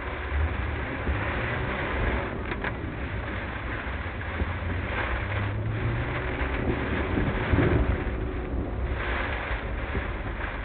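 Heavy thunderstorm rain and wet-road noise heard from a moving car, with a steady hiss and a low rumble throughout, sped up to double speed.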